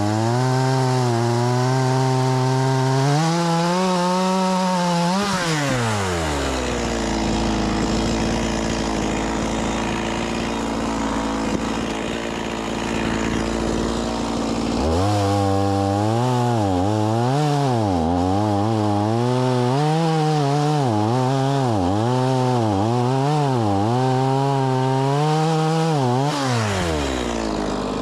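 Stihl MS 180 C-BE two-stroke chainsaw cutting firewood logs at full throttle, its pitch wavering up and down under load. About six seconds in it drops to idle for around nine seconds, then revs up and cuts again before falling back to idle near the end.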